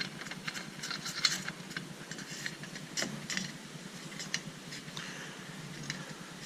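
Light metal clicks and scrapes as a nut is threaded back onto the compact tractor's air filter housing cover.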